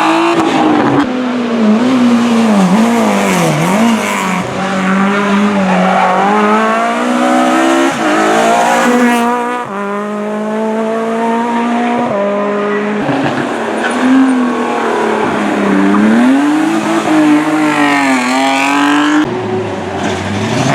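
Hillclimb race car engine at hard throttle, its pitch climbing and falling again and again with abrupt drops between runs of revs.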